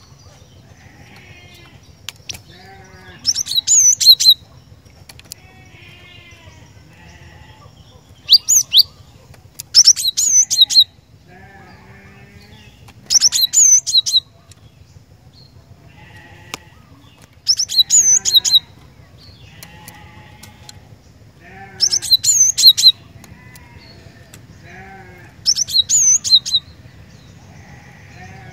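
Cinereous tit (glatik batu) singing: loud phrases of quick, high, ringing notes, each about a second long, repeated seven times at gaps of a few seconds, with softer twittering between them. A low steady hum runs underneath.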